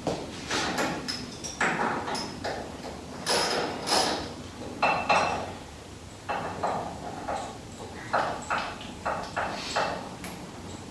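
Metal hand tools clinking and knocking against metal parts: an irregular run of sharp clanks, many with a brief ringing tone.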